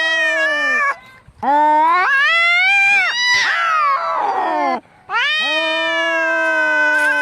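Angry cat caterwauling, the drawn-out yowl of a cat fight: three long wails with brief breaks between them, the middle one breaking into a harsh rasp partway through.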